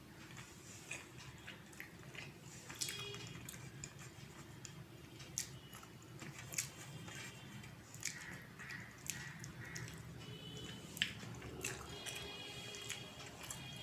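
A person chewing a mouthful of rice and wet curry close to the microphone, with many small, sharp wet mouth clicks and smacks.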